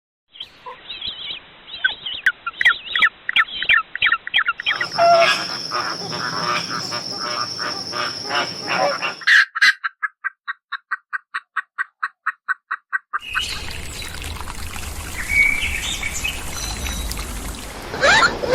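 Bird calls in several spliced clips: bursts of chirping, then a rapid run of evenly repeated calls at about six a second, then more calling over background noise.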